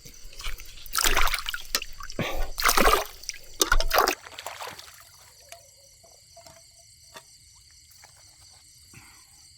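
Water splashing and trickling in several loud bursts through the first four seconds, then it stops. After that, a steady high insect buzz remains with a few faint clicks.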